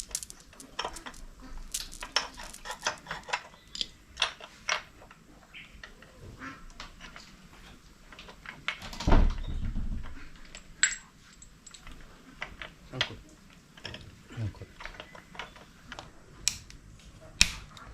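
Metal hand tools and engine parts clinking and tapping in irregular clicks while the engine is being taken apart. A heavier dull knock comes about nine seconds in.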